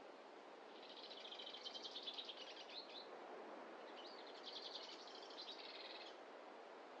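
A songbird singing two quick trilled phrases, each about two seconds long, with a short pause between them, over a faint steady hiss.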